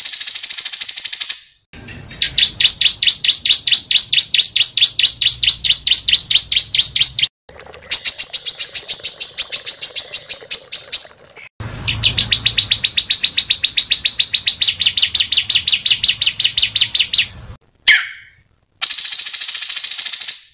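A small songbird singing rapid, harsh trills of repeated high notes, in runs several seconds long broken by short pauses.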